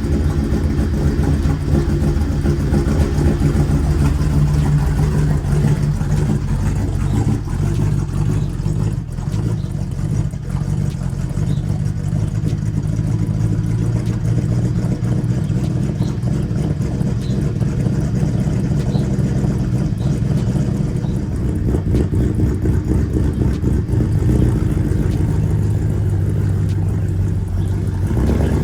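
Overhauled Mercedes car engine running steadily, its pitch and level wavering a little. The engine has a slight miss, which the owner suspects is due to worn ignition coils.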